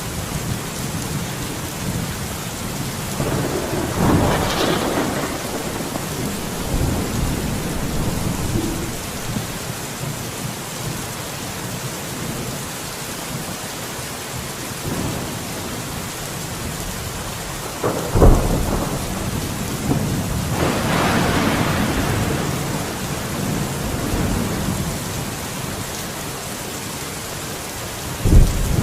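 Steady rain in a thunderstorm. A rolling peal of thunder comes about four seconds in. A sharp thunderclap follows at around eighteen seconds and gives way to a long rumble, and another sharp crack of thunder comes near the end.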